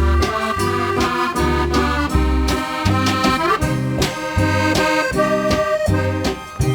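Accordion instrumental: a lively melody played over a steady, pulsing bass accompaniment.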